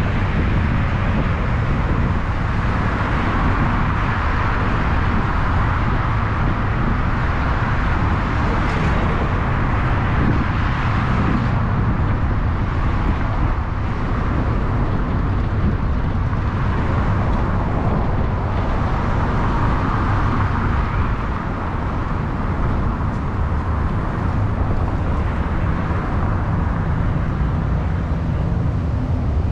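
Steady road and engine noise of a car being driven, a continuous low rumble with tyre hiss and no sudden sounds.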